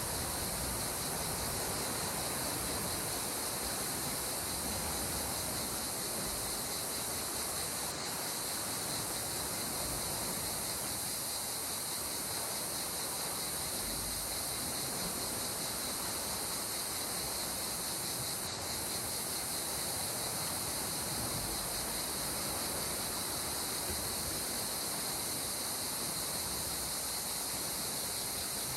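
Steady rush of sea water, unbroken and even, with a constant high chirring of crickets or other insects over it.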